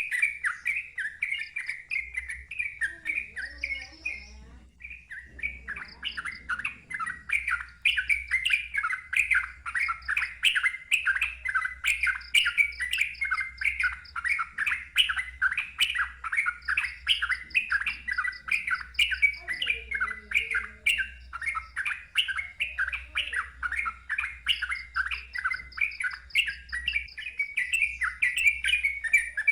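Yellow-vented bulbul singing a long, fast run of loud chirping notes, with a brief lull about five seconds in.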